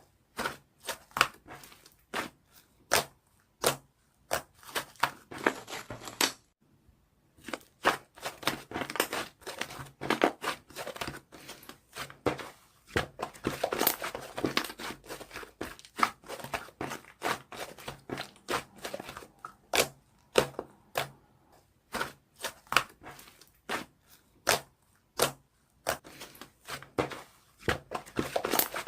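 Irregular crinkling and crackling from something being handled close up, made of many short sharp clicks with brief pauses.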